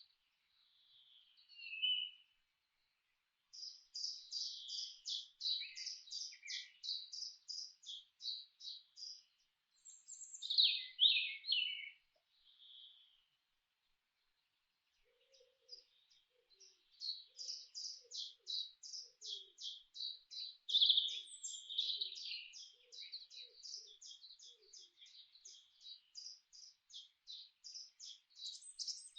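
Birds singing: long runs of quickly repeated high chirping notes, several a second, with a short gap in the middle. A faint series of low notes sounds beneath the second run.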